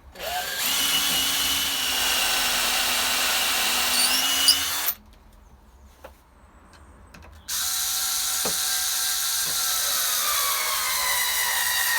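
Power drill boring holes into softwood timber: two steady runs of about five seconds each with a short pause between, the pitch sagging slightly near the end of the second run.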